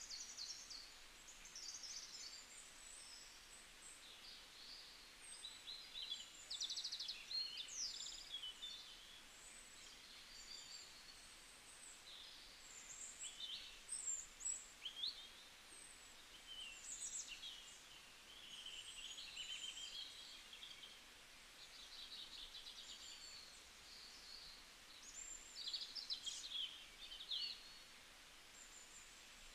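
Small birds chirping and twittering faintly in scattered high calls and short quick trills, over a light steady hiss.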